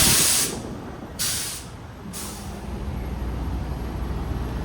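Two short bursts of compressed air hissing on a tractor-trailer rig, one at the start and one just over a second in. A low steady hum comes in about two seconds in.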